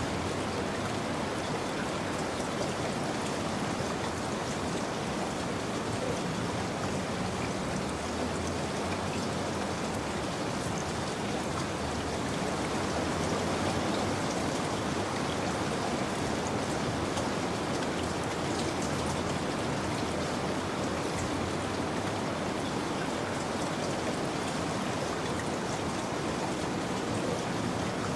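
Steady rain falling, an even hiss with fine drop patter on a surface.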